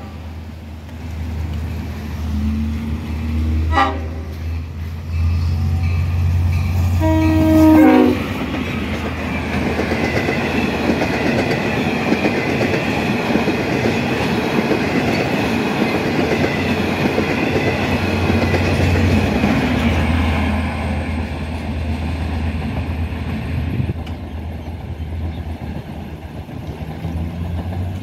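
LIRR diesel locomotive sounding its horn at a grade crossing, a short blast about four seconds in and a longer, louder one near eight seconds, over the engine's low drone. Then the double-decker passenger train rolls past close by, a steady rumble of wheels on the rails that eases off in the last few seconds.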